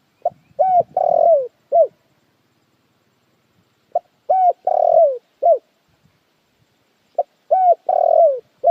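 A puter dekukur dove cooing: three repeated phrases, each a short note, a pair of notes, a longer drawn-out coo that falls at its end, and a short closing note, with a few seconds of silence between phrases.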